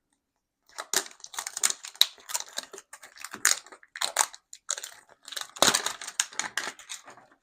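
Toy packaging being torn open by hand, with a run of irregular crinkling and ripping noises that start about a second in.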